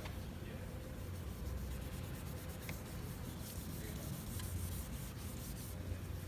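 Steady rubbing of hand wet-sanding a plastic headlight lens with 1500-grit sandpaper, lubricated with Windex, with a low hum underneath.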